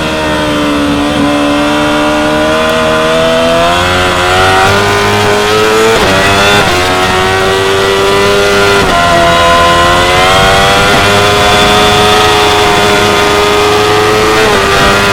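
Yamaha R6 599 cc inline-four sport-bike engine at high revs under acceleration: the pitch climbs steadily and drops sharply at each upshift, about four times, after easing off briefly at the start.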